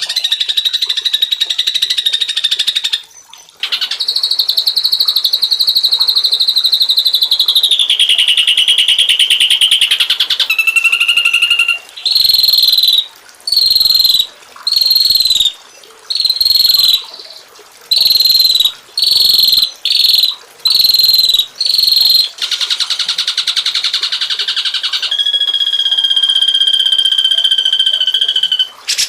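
Songbirds singing: long, rapid high-pitched trills, then about ten short loud calls repeated roughly once a second, then a buzzy trill and a long steady whistled trill near the end.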